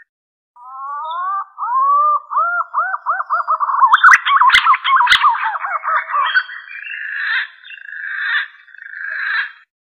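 Green pigeon (punai) song as a lure call. It opens with whistled notes gliding upward, quickens into a run of rapid looping notes about four seconds in, then turns to rougher, burrier notes for the last few seconds. Two sharp clicks sound in the middle.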